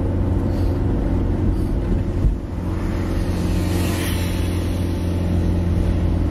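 Car engine running steadily on the move, with a short thump about two seconds in.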